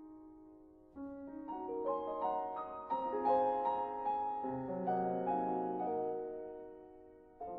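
Background piano music: a single held note, then from about a second in a run of notes climbing into full chords that ring and fade, with a new chord struck near the end.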